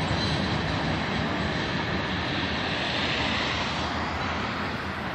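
Union Pacific freight train rolling past, its cars making a steady rumbling noise that slowly fades toward the end.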